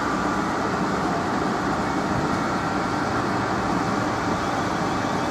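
Class 444 Desiro electric multiple unit running at the platform: a steady rumble of wheels and traction equipment.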